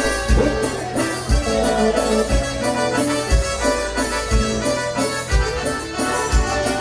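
Accordion-led dance-band music with a steady bass-drum thump about once a second.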